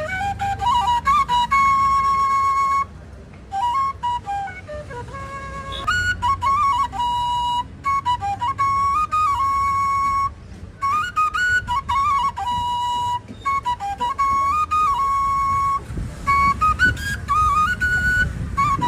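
Solo flute playing a melody: held notes broken by quick ornamental runs and short pauses.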